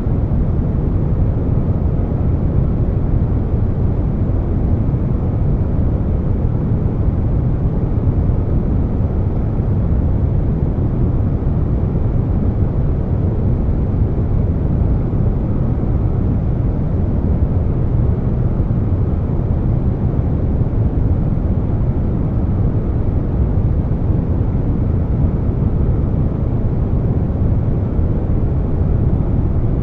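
Air conditioner noise blended with brown noise: a steady, deep hiss weighted to the low end, with no changes.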